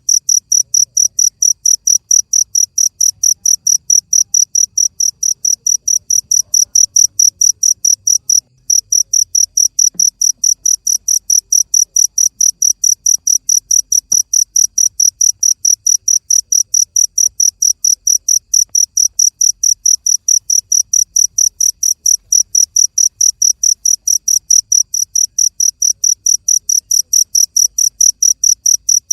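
Cricket chirping: short, high chirps repeating evenly, several a second, with one brief break about eight seconds in.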